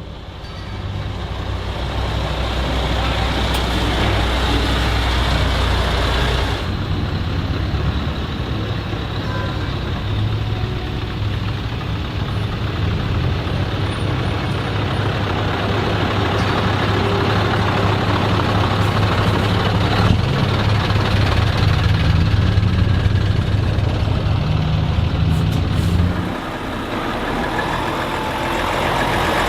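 Heavy diesel truck engine running loud and close, its pitch rising somewhat shortly before the sound cuts off suddenly near the end.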